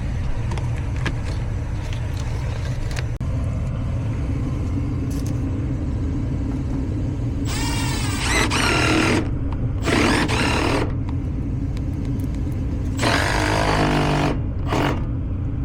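Gas furnace running with its burners lit and its new inducer motor going, a steady low rumble. Three times in the second half, a cordless drill whirs up and slows in short bursts, driving screws.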